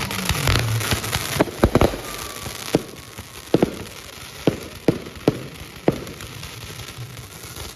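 Fireworks going off: about nine sharp bangs at irregular intervals over the first six seconds, over a crackling hiss that is loudest in the first two seconds and then fades.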